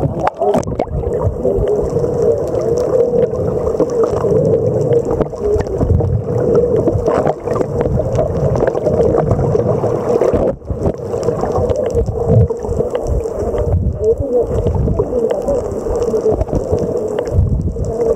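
Muffled, continuous water noise, sloshing and gurgling with a low rumble, as heard through a camera held underwater.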